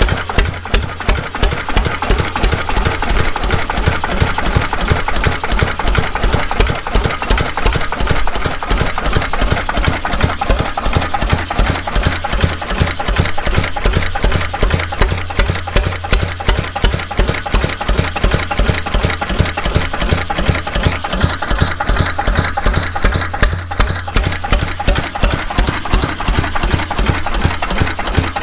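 Vintage McDonald 'Super Diesel' stationary engine running steadily, with a fast, even beat of firing strokes.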